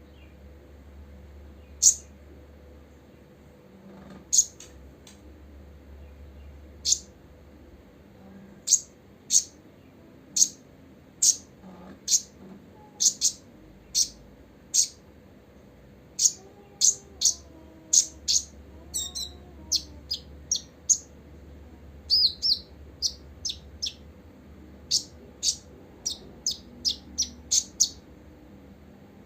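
Copper-throated sunbird calling with short, sharp, very high chirps, spaced out at first and then coming in quicker runs, with a few fuller twittering notes about two-thirds of the way through. A faint steady hum lies underneath.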